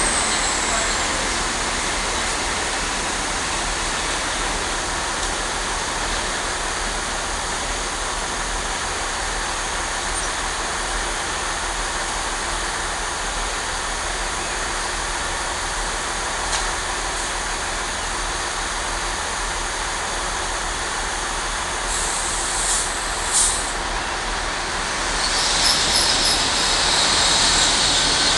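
Steady rumble and hiss of trains running through the station, then a GWR Intercity Express Train draws in close along the platform near the end, with a high-pitched wheel squeal building as it passes.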